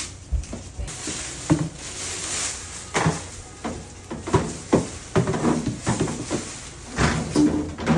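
Irregular knocks and light clatter of things being handled and set down, with short sharp clicks throughout.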